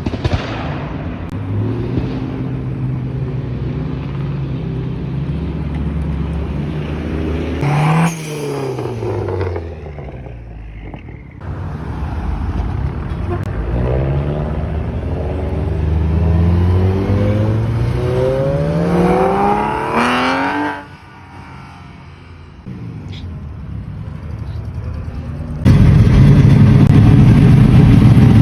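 Car engines heard in several short cut-together pieces. A car drives past about a quarter of the way in, then an engine revs steadily higher and cuts off about two-thirds through. Near the end a loud, rough engine runs close by.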